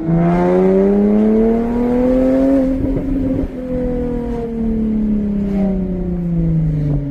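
Jaguar F-Type's supercharged 3.0 V6 through a valveless stainless-steel exhaust, its revs climbing for nearly three seconds under acceleration. A short break with a few crackles follows, then the revs fall steadily as the driver lifts off.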